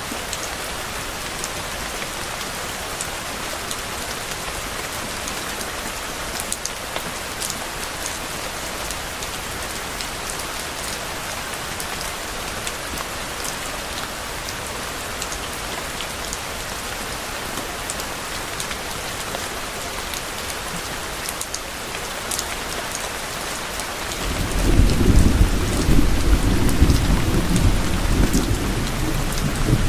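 Steady rain falling, a continuous hiss with scattered sharp drop ticks. Near the end a low rumble of thunder rolls in and becomes the loudest sound.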